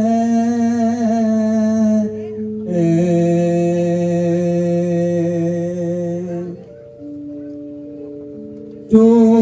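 Campursari music played on an electronic keyboard: long held chords for about six seconds, then a quieter melody stepping from note to note, before the full louder sound comes back near the end.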